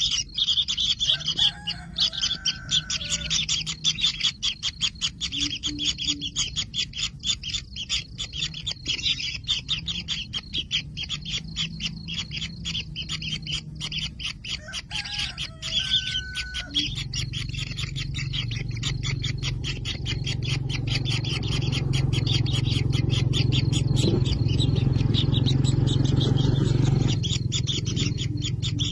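Kingfisher nestlings calling inside the nest burrow: a long run of rapid, high ticking calls. A low hum comes in about halfway through and grows louder before dropping away near the end.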